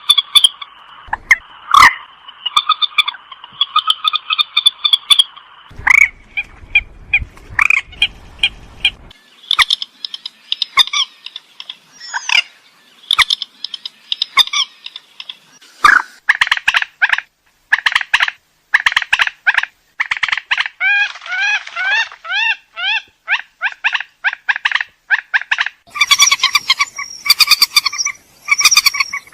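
Purple swamphen calling: a long series of short, harsh nasal calls, some strung together in fast chattering runs.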